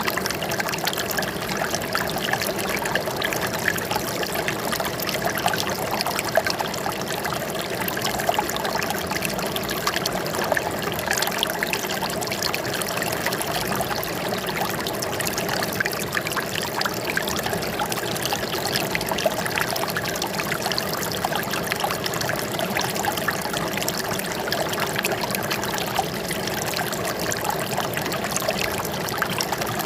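Flowing water trickling and splashing steadily, like a small stream running over stones.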